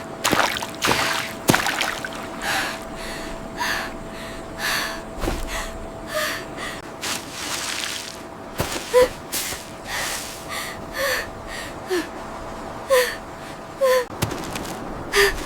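A person gasping for breath, with short sharp breaths about once a second, some with a brief voiced catch.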